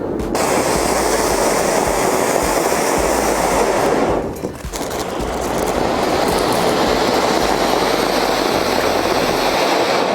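Fireworks burning with a continuous loud rushing hiss that dips briefly about four seconds in, then picks up again.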